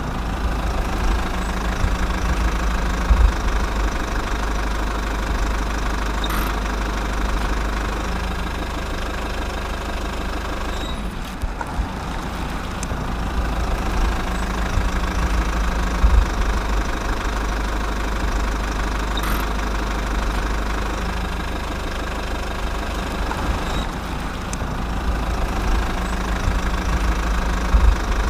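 A mini tractor's engine running steadily at idle, with a low, even drone that dips briefly about eleven seconds in.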